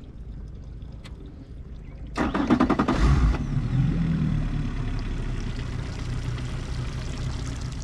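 Boat's outboard motor running at low speed. About two seconds in it rises sharply in a loud rattling burst, then settles into a steady, louder run as the boat gets under way.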